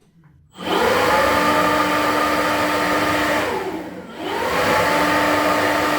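Porsche Cayman S 987.2's flat-six engine revved twice, each time climbing quickly to a high rpm, held steady for about three seconds, then dropping back, heard through an exhaust with the manifold catalysts partly removed (semi-decat).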